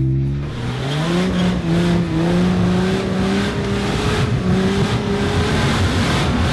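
Off-road Jeep engine revving up under load, its pitch rising about half a second in and then holding high and steady, over a loud rough rushing noise.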